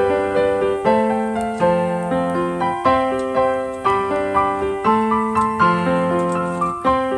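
Background music: a piano plays a steady, gentle melody with chords, notes struck about twice a second.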